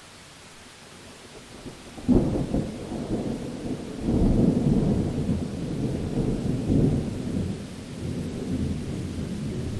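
Rain hissing steadily, then a thunderclap cracks about two seconds in and rolls into a long low rumble that swells again a second or two later.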